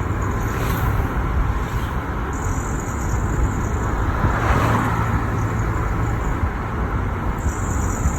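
Nissan Juke running on the road: a steady rumble of engine and road noise, swelling briefly about four seconds in. The recording is meant to show a noise fault on the car.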